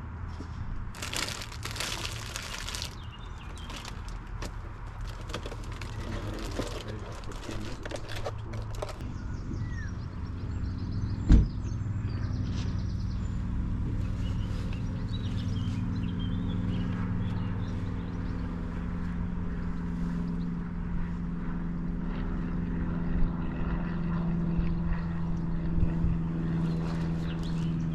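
A motor vehicle engine running with a steady hum. There is one sharp thump about eleven seconds in.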